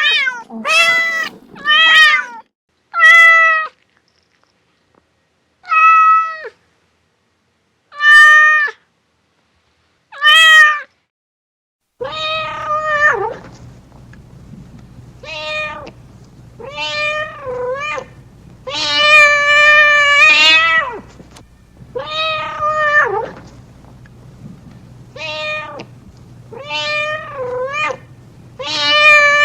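Domestic cat meowing over and over. First a run of short meows with dead silence between them; then, partway through, a different recording with a low background hum and longer, drawn-out meows every two or three seconds.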